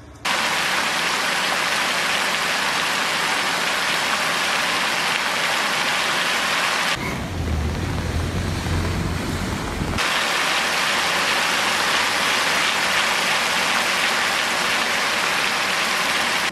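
Steady, loud hiss of a heavy downpour. For about three seconds in the middle, a different recording with less hiss and a deep rumbling noise takes over.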